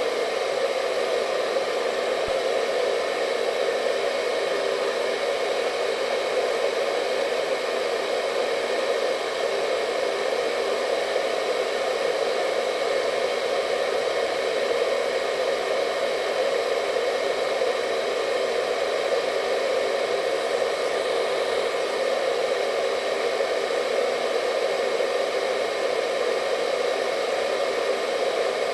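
Hair dryer running steadily: a constant airy hum strongest in the low-middle range, with faint steady whine tones above it.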